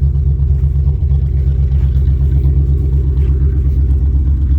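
1967 International 1200 pickup's engine running steadily, a low even rumble with no revving.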